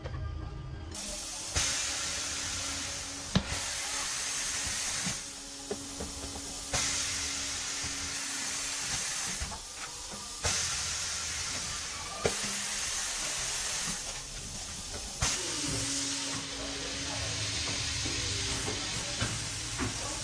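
Compressed air hissing in repeated spells of a few seconds each, about four in all, each starting suddenly, with a few sharp metallic clicks between them.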